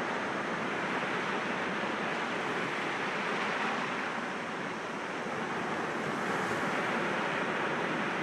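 Sea waves washing against rocks: a continuous wash of surf that eases briefly about halfway through and swells again near the end.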